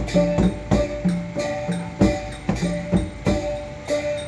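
Percussion music with a steady beat of about three strikes a second, with a ringing metallic tone held under the strikes.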